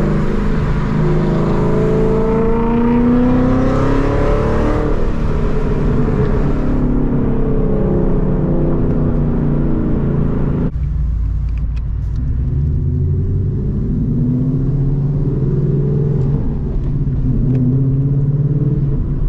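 Mustang engine and exhaust accelerating, its pitch rising over the first few seconds. The sound changes abruptly about ten seconds in, and then the engine runs at steadier revs with a few short rises in pitch.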